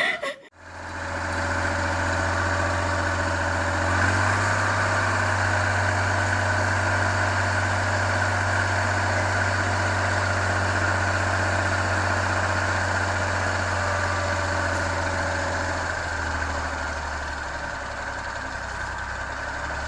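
An engine running steadily at constant speed with a deep hum; its pitch drops slightly and it gets a little quieter about four seconds before the end.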